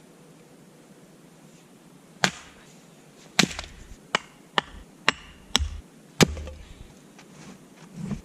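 Axe striking small firewood logs while splitting them: a run of about seven sharp, uneven chops that begin about two seconds in.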